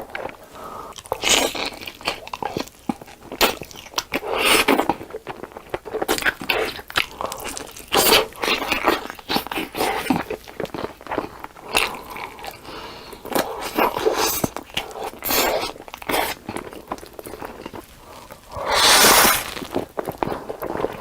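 A person chewing and biting crunchy food close to the microphone, in irregular crunches. Near the end comes one louder noise about a second long.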